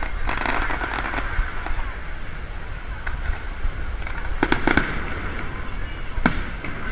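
Aerial fireworks bursting overhead: a quick cluster of sharp bangs and crackles about halfway through and a single bang near the end, over a steady low rumble.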